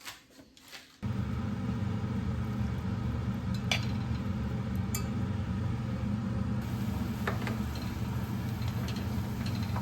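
A steady low hum starts abruptly about a second in and holds, with a few light clinks of dishes and cutlery scattered through it.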